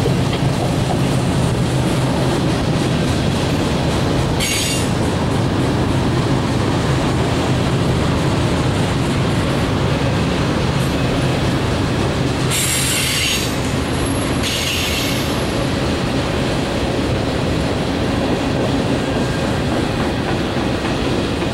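Freight train cars, mostly tank cars, rolling past: a steady rumble of steel wheels on the rails. Brief high screeches from the wheels come about four seconds in and twice more around thirteen and fifteen seconds.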